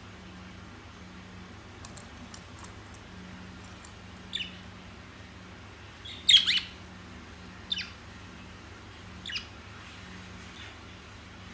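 A parrot giving short, sharp squawking calls, four of them a second or two apart, the loudest a quick double call about six seconds in, over a faint steady low hum.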